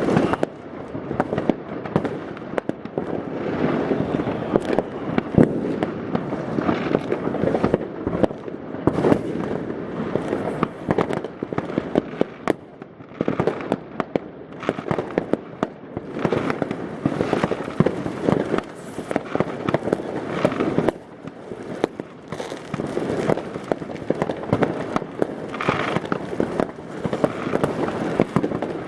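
New Year's Eve fireworks and firecrackers going off continuously across the neighbourhood: a dense, unbroken barrage of bangs and crackling, echoing off the surrounding buildings.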